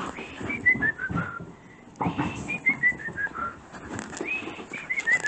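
A bird's whistled song: a quick run of about six short clear notes stepping down in pitch, sung three times about two seconds apart, over faint scuffling of puppies playing.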